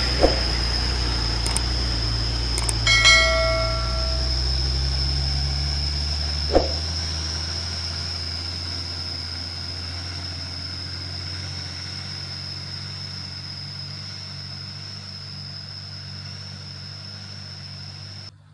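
Heavy diesel truck engine pulling hard uphill: a steady low drone that slowly fades as it moves away, with a steady high whine above it. Two short knocks, one near the start and one about six and a half seconds in, and a brief ringing tone about three seconds in.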